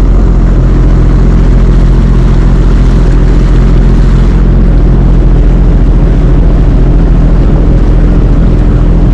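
Jet ski engine running steadily, its hum holding an even pitch throughout, with rushing noise over it.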